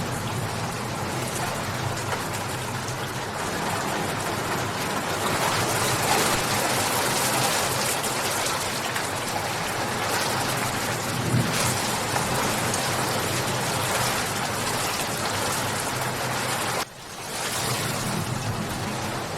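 Steady, heavy rain pouring down in a dense, even hiss. Near the end it drops away suddenly and swells back within about a second.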